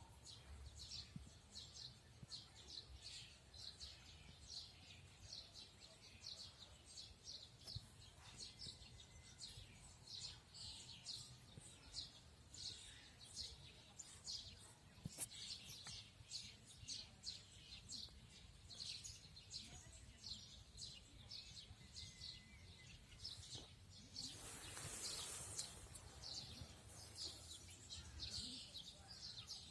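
Birds chirping in a park, a steady stream of short high chirps at two or three a second over a faint low rumble. About two-thirds of the way through, a brief rushing noise swells and fades over a couple of seconds.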